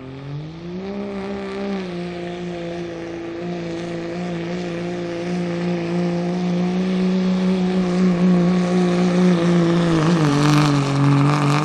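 Turbo-diesel pickup truck engine running at full throttle during a truck pull. The engine revs up in the first second and holds a steady high pitch while getting louder. Near the end the pitch drops as the engine loads down.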